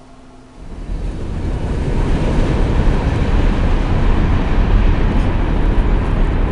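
Steady heavy rumble of a train near a railroad crossing, building up about half a second in and then holding.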